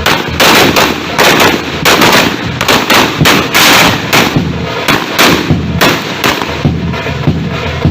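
Fireworks going off in a rapid, irregular string of loud bangs, about two or three a second and bunched together in places.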